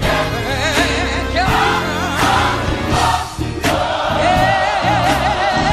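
Gospel choir singing with band accompaniment, with a long held note with vibrato near the end.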